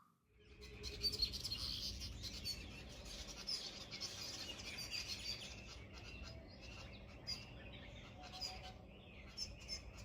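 Small birds chirping, many short high calls overlapping, over a low rumble.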